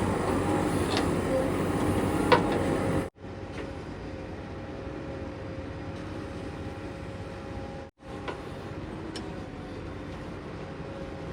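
Heavy diesel engine running steadily, louder for the first three seconds, then quieter; the sound cuts out abruptly twice, about three and eight seconds in.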